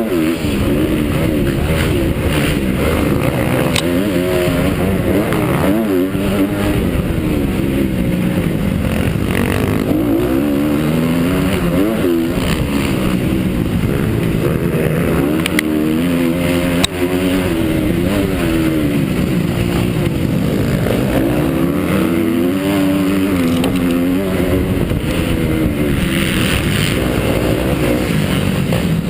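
Honda CRF250 four-stroke motocross bike engine revving hard and rising and falling in pitch over and over as the rider races, with wind noise on the microphone and a few sharp knocks.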